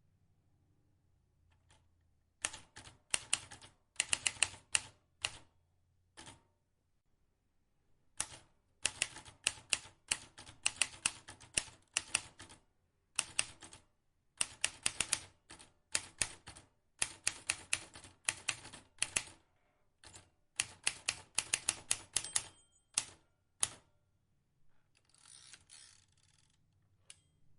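Vintage typewriter keys struck in quick runs of several clicks a second, in bursts of a few seconds with short pauses between them. Near the end there is a softer rustle with no clear clicks.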